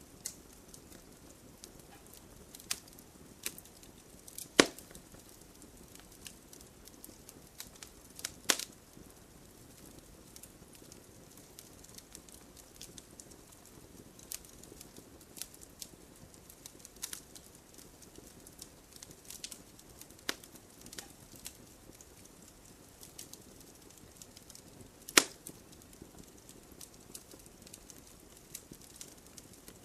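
Fireplace fire crackling: irregular small snaps and pops over a soft steady hiss, with three louder sharp pops about four and a half seconds in, eight and a half seconds in and twenty-five seconds in.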